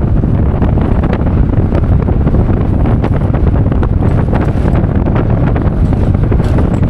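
Wind buffeting the microphone: a steady, loud rumbling rush, heaviest in the low end, with small crackles through it.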